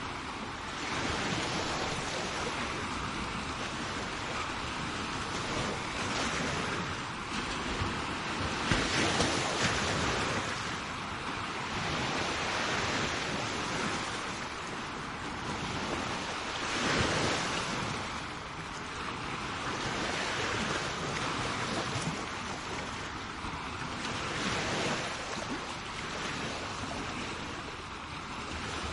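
Sea waves breaking and washing up on a shore: a continuous rush of surf that swells and eases every few seconds, with the strongest surges about a third and just over half of the way through.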